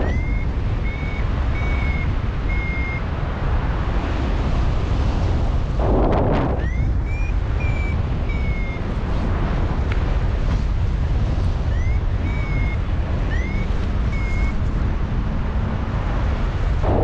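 Wind buffeting the microphone in flight, with a paragliding variometer sounding three runs of short high beeps, some starting with a quick upward chirp; the beeping signals that the glider is climbing in lift.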